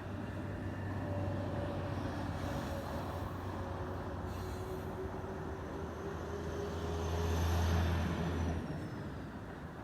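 KZ4AC electric locomotive running with a passenger train: a steady rumbling noise over a strong low hum, with faint whining tones that slowly slide down in pitch. The hum swells about seven seconds in, then drops off suddenly.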